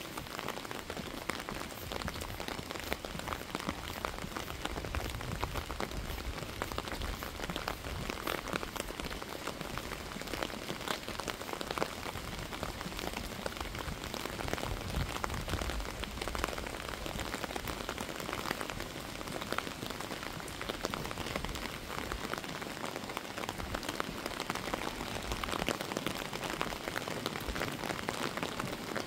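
Steady rain falling, a continuous hiss dense with the small ticks of individual drops striking hard surfaces, with a couple of brief low rumbles.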